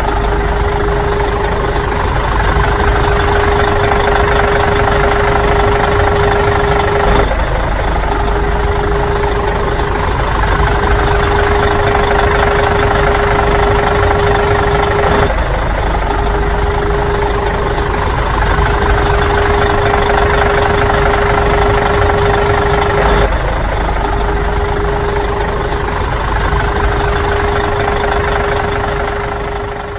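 Engine running steadily at idle, a loud continuous drone with a steady hum. The sound repeats in stretches of about eight seconds, with a brief break at each join.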